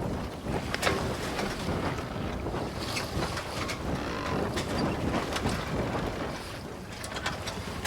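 Wind buffeting the microphone over the splash and rush of waves, aboard a sailing catamaran under way.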